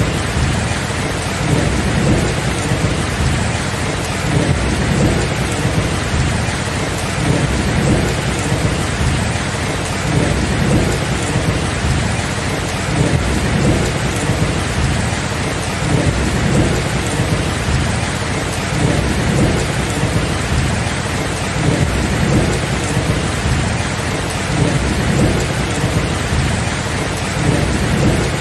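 Steady rain with low thunder rumbling on and off throughout, and no sharp claps.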